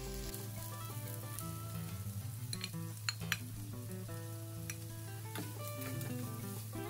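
Stir-fried instant noodles sizzling in a frying pan, with a few light clicks of the utensils against the pan and plate about halfway through, under background music.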